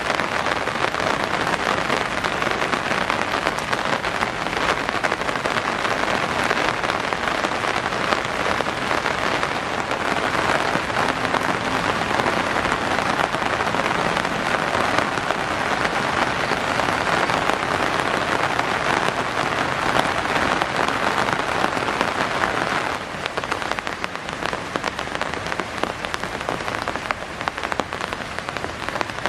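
Steady rain falling, with many small drops ticking on surfaces; it eases slightly near the end.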